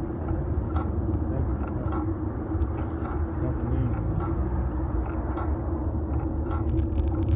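Fixed-gear bike riding noise picked up by a phone in a metal handlebar mount: a steady low rumble of tyres and wind with a steady hum, and scattered small ticks and rattles from bumps in the road.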